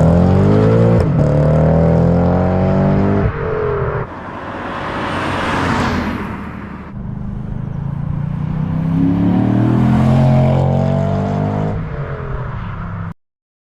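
Lexus IS 500's 5.0-litre 2UR-GSE V8 through an ARK GRiP catback exhaust, accelerating hard: the pitch climbs and drops back at upshifts about one and three seconds in. Midway a rushing noise swells and fades, then the engine pulls again until the sound cuts off suddenly near the end.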